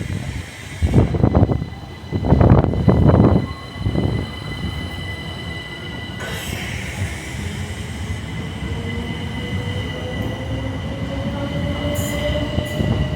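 Southeastern electric multiple-unit train running, with a steady high electric whine and a couple of loud rumbling bursts in the first few seconds. From about the middle, a motor tone rises slowly in pitch as the train gathers speed.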